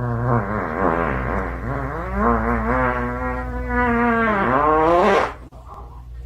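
A pet's long, wavering vocal cry that glides up and down in pitch, is held steady for a while, and stops about five seconds in, over a low steady hum.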